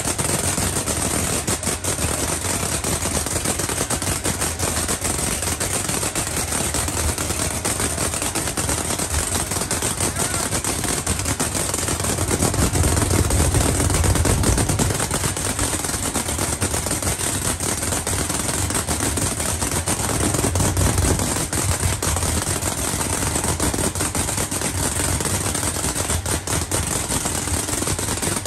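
Drag race car's engine running on open exhaust, a loud continuous choppy crackle of rapid pops. It swells louder near the middle and again briefly later.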